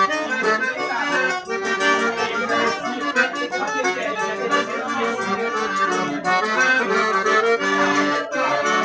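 Accordion playing a forró tune, a steady instrumental passage with quick, high percussion ticks underneath.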